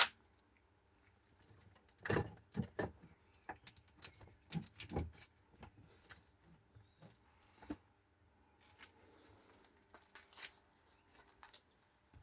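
Scattered short knocks and clicks, as of something being handled, with the most of them about two to five seconds in; no engine is running.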